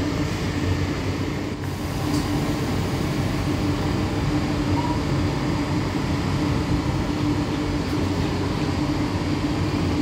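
Intercity passenger train at a station platform: a steady hum over an even low rumble.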